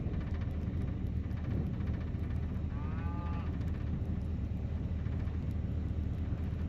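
A vehicle engine running steadily, with a single short cow moo about three seconds in.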